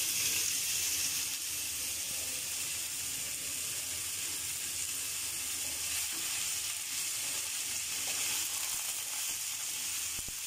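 Boiled bottle gourd greens (lau shak) sizzling steadily in hot oil with browned garlic and onion in a nonstick pan as they are stirred with a spatula; the sizzle is a little louder in the first second or so, just after the greens go in.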